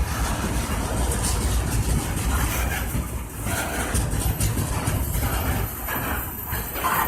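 Norfolk Southern freight train's diesel locomotives running, a steady heavy rumble with noise spread across the range.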